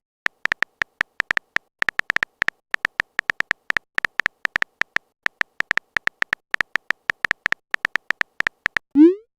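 Rapid, irregular ticks of a text-chat typing sound effect, all on about the same pitch, several a second. Just before the end comes a short rising bloop.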